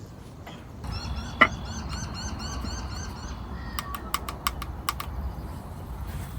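Birds calling, with a quick run of repeated high chirps, over a low rumble of wind on the microphone. A single sharp knock about a second in, and a string of sharp clicks around the middle.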